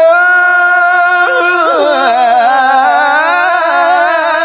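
A Quran reciter's voice in melodic tajweed style, drawing out a long vowel on one steady pitch for about a second, then breaking into a wavering, ornamented melismatic run.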